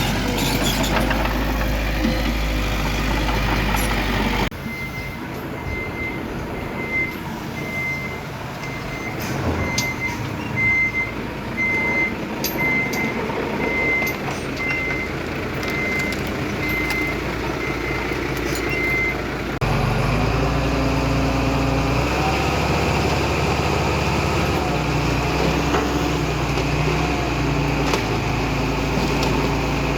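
Heavy diesel machinery engine running, then a dump truck's reversing alarm beeping steadily, a little faster than once a second, for about fifteen seconds over engine noise, before heavy engine running takes over again.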